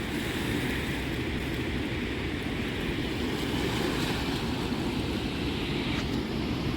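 Steady rush of water from the flood-swollen Connecticut River running high over a dam.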